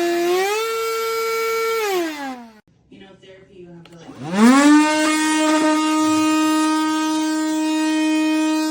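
Cordless handheld vacuum motor whining at a steady pitch. Just after the start the pitch steps up a little. About two seconds in it is switched off and winds down. After a short pause it is switched on again, spins up within about half a second and runs steadily.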